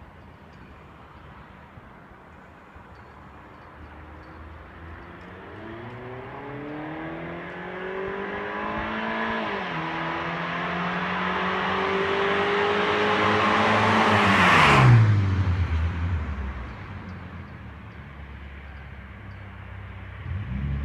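Exhaust of a BMW E46 316i's 1.8-litre four-cylinder (N42B18) with the muffler deleted, accelerating: the engine note climbs, drops once with a gear change about nine seconds in, then climbs again. It grows louder to a peak about fifteen seconds in, where the pitch falls sharply as the car goes past, settling into a lower, quieter note.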